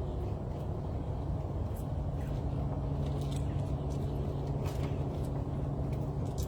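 A steady low motor hum, like a vehicle engine running, with faint brief bird chirps scattered through it.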